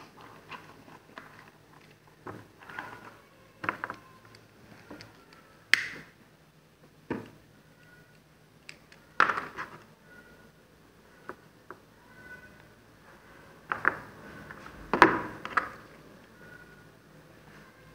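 Small tools and parts being handled on a work surface: scattered clicks, taps and light clatter, the loudest knocks about 6, 9 and 15 seconds in.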